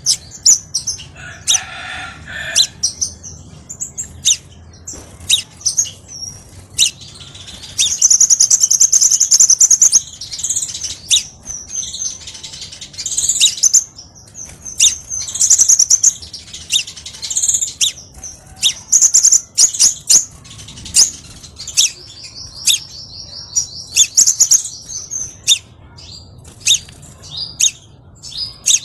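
Crimson sunbird song: a busy run of high-pitched chirps and sharp ticking calls, broken by fast buzzy trills.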